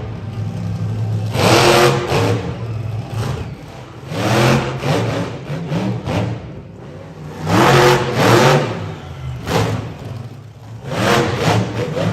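Monster truck engine revving hard in repeated surges, five or six throttle bursts a couple of seconds apart, falling back to a lower running note between them.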